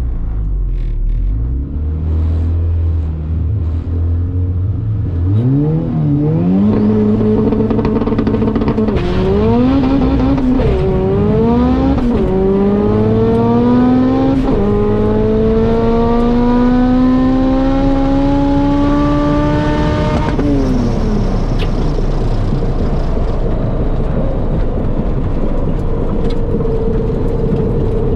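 A car's engine at full throttle on a drag-race pass. It idles low, then launches about five seconds in and revs up through the gears, its pitch dropping at each of several quick shifts. It pulls in one long rising note in top gear and then falls away when the driver lifts off, about twenty seconds in, leaving a steady rolling noise.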